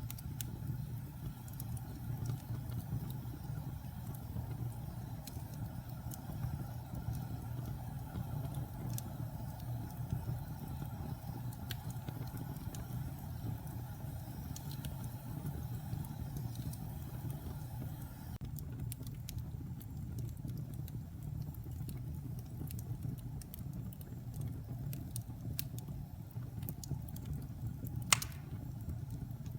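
Wood fire burning in a fireplace: a steady low rumble of flames with scattered crackles of the burning wood and one louder pop near the end.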